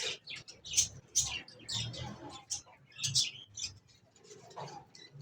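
Small caged parrots chirping: a busy, irregular run of short, high chirps, several a second.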